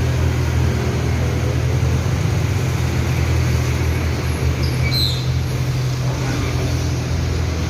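A steady low motor hum, with a brief high chirp about five seconds in.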